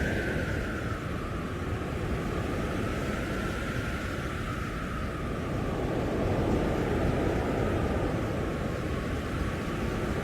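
Blizzard wind blowing steadily with a deep rumble, and a howl that slowly rises and falls in pitch over it.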